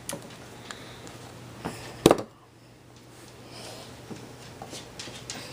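Kitchen handling noise: a spoon and the plastic blender cup clicking and knocking as ice cream is scooped in, with one loud knock about two seconds in.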